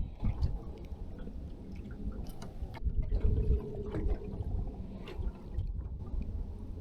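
Water lapping and sloshing against a boat hull, with a few small knocks scattered through.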